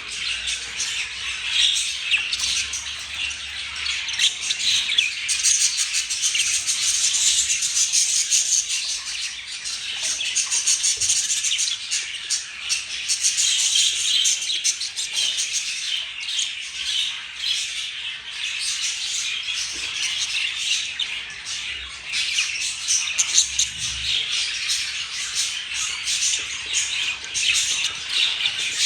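Budgerigars chattering without a break: a dense stream of scratchy warbles, clicks and squawks.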